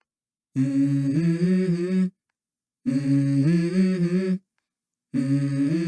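A low voice humming a short melody in three phrases of about a second and a half each, every phrase stepping up in pitch, separated by dead silence.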